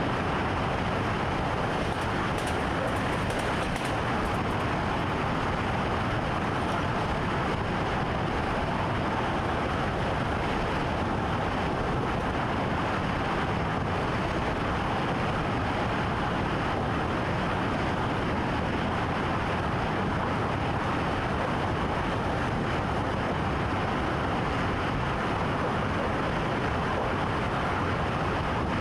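Steady running noise of a train heard inside the driver's cab while it travels along the track.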